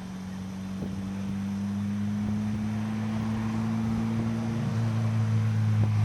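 Nissan SR20DET turbo four-cylinder engine running at steady, fairly low revs in the 200SX, heard from inside the car. The engine note gets gradually louder, with a small change in pitch a little before five seconds in.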